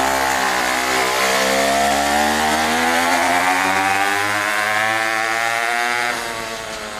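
Lawn mower engine fitted to a homemade scooter, running without a muffler and a bit loud. Its pitch climbs steadily as it revs, then falls suddenly, and the sound drops in level, about six seconds in.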